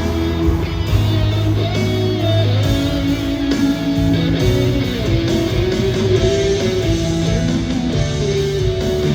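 Instrumental band music led by guitar over a steady bass line, without singing.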